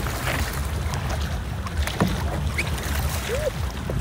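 Wind rumbling on the microphone during kayaking on open water, with a single knock about two seconds in.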